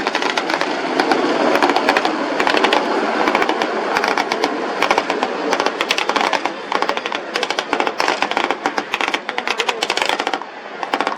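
Rapid small-arms gunfire with blank rounds, many shots in quick irregular succession over a steady background noise, easing briefly near the end.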